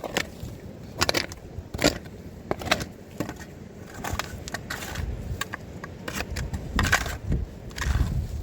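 Irregular crunching and scraping sounds, roughly one a second, over a low rumble.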